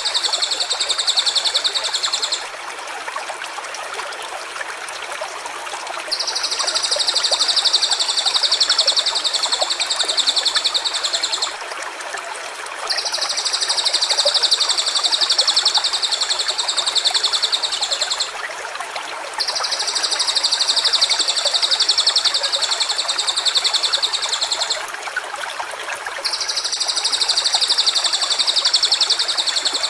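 Stream running steadily, with a high, rapidly pulsed trill over it that goes on for about five seconds at a time, broken by pauses of a second or so, five times in all.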